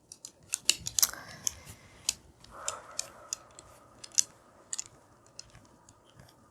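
Irregular sharp clicks and ticks, several a second, as of small hard objects being handled, with a faint steady tone from about two and a half seconds in.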